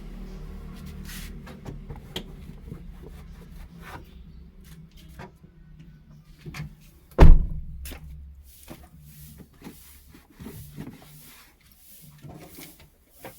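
Scattered small clicks and knocks of things being handled inside a car, over a low hum that fades out by about halfway. About seven seconds in a car door shuts with one heavy thump.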